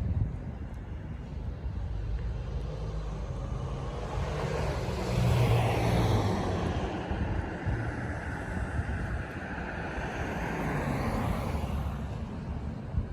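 An aircraft passing overhead: a broad engine noise that swells about four seconds in, is loudest around six seconds, then slowly fades with a sweeping change in tone. A low rumble of wind or distant traffic runs underneath.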